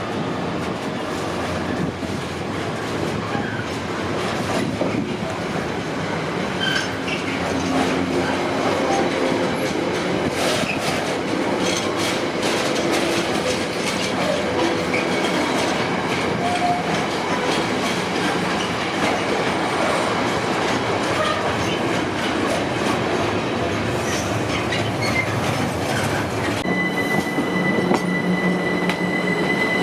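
A train running past at close range, wheels rolling over the rails with a steady rumble. Near the end a steady high-pitched squeal sets in.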